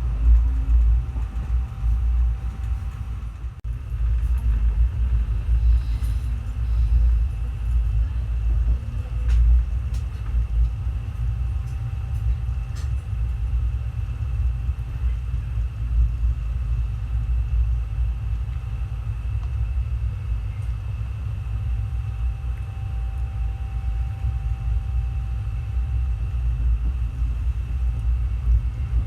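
Passenger train running, a steady low rumble with faint steady tones above it.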